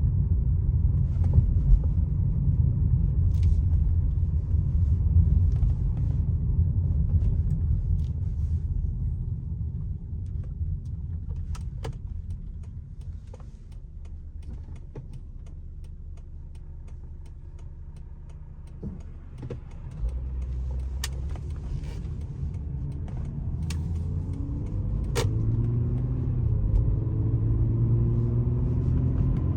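2004 Lexus GS300 with its 3.0-litre straight-six on the move: a steady low road-and-engine rumble that eases off for several seconds in the middle, then the engine note climbs as the car accelerates near the end. A few sharp clicks come through.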